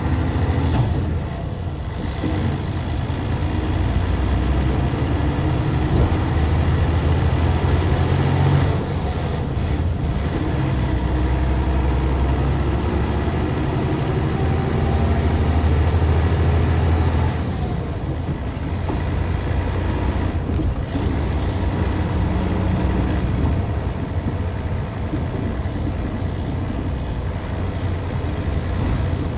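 Hyundai D6CC Powertec 380 six-cylinder diesel engine of a coach bus running under load, its note climbing as it accelerates. About 17 seconds in, the engine eases off and the sound drops, then it runs on at a lower, steady level.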